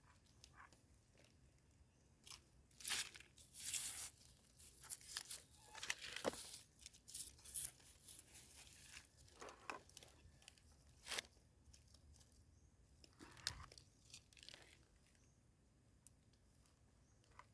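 Scattered rustling, crunching and snapping of leaf litter, twigs and soil as termite mushrooms are picked by hand, faint overall with a few sharper snaps and quieter toward the end.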